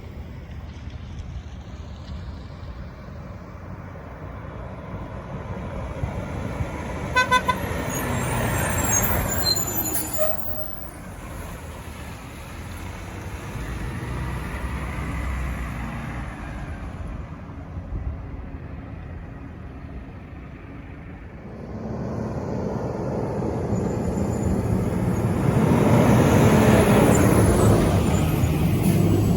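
Garbage trucks driving past with engine and tyre noise, one truck giving a short honk of its horn about seven seconds in. A second truck's engine grows loud over the last several seconds as it approaches.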